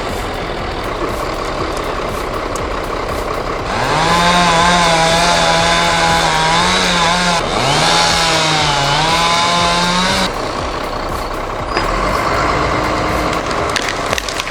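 Two-stroke chainsaw running at high revs for about six seconds, starting about four seconds in, its pitch dipping briefly midway as it cuts, over steady outdoor background noise. Sharp cracks begin near the end.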